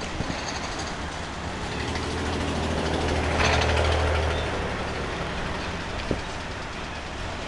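Freight train of autorack cars rolling steadily past, a rumble of steel wheels on rail. A louder low drone swells in around two seconds in and fades again by about five seconds.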